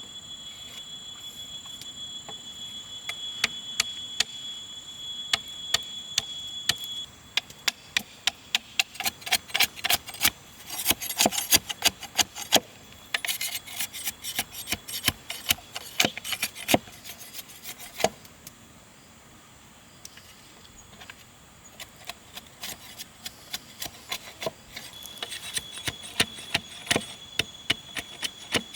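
A rapid run of sharp wooden knocks and clicks with rubbing and scraping, densest in the middle, as wood is worked by hand. A steady high insect drone runs under it at the start and returns near the end.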